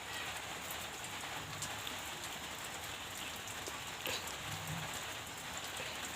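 Steady background hiss with a few faint clicks, about four seconds in.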